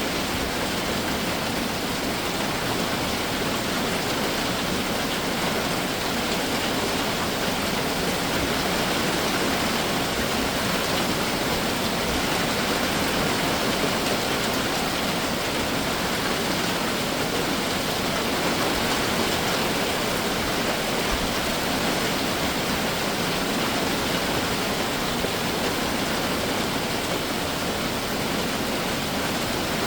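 Heavy summer rain shower falling steadily, a dense even hiss of rain with no break.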